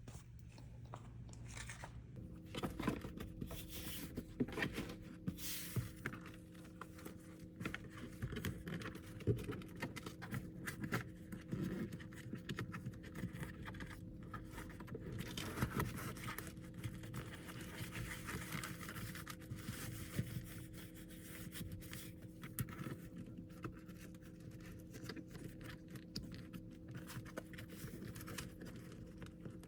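Handling noises: scraping and rustling with many small clicks, like packaging or plastic film being handled and torn, over a steady low hum.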